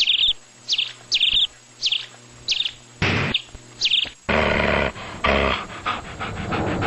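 A small bird chirping: about six short, high chirps with rising sweeps over the first four seconds. Then a louder, noisy, scratchy stretch with rapid pulses.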